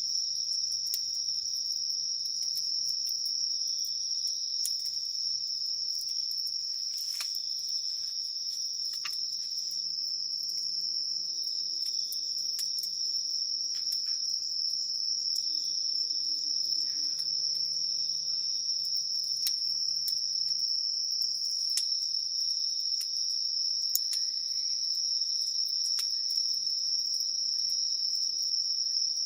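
Dense chorus of crickets and other night insects: a continuous high-pitched trill that holds steady throughout. Scattered sharp pops and crackles from a wood campfire break through it.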